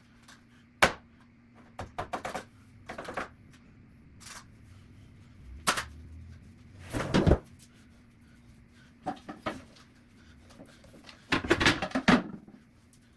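Scattered knocks, taps and short bursts of clatter from household objects being handled and put down, with the loudest bumps about seven seconds in and again near the end. The audio is played at double speed.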